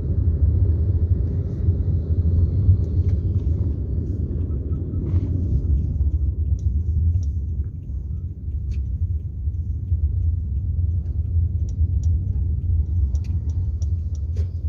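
Steady low rumble of a moving road vehicle, with scattered light clicks and rattles; the rumble eases a little about six seconds in.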